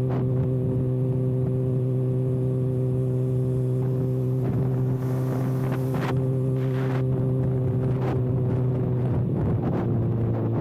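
Kawasaki ZX-6R inline-four running at a steady cruising engine speed with its exhaust muffler can removed, a loud even drone that dips slightly in pitch near the end, with wind noise on the microphone.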